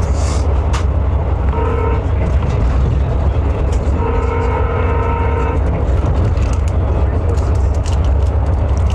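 Train horn sounding a short blast and then a longer one, over the steady low rumble of a train.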